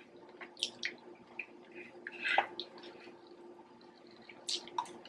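Wet chewing and lip-smacking of people eating, soft scattered smacks and clicks, a louder cluster about two seconds in and again near the end, over a faint steady hum.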